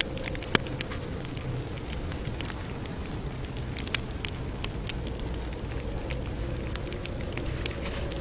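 Campfire crackling: irregular sharp pops and snaps over the steady low rumble of burning wood, with one louder pop about half a second in.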